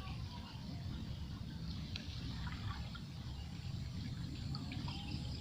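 River water running steadily, with faint trickling and a few small chirps scattered over it.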